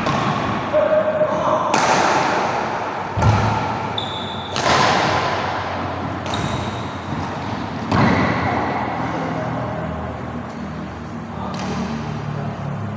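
Badminton rackets striking a shuttlecock in play: sharp hits at irregular gaps of one to a few seconds, each with a short echoing tail, over people's voices.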